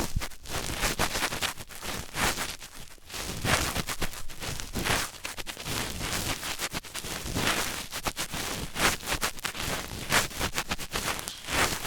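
Dense, irregular crackling and scratching close against a microphone, a run of quick clicks and scrapes with no steady rhythm.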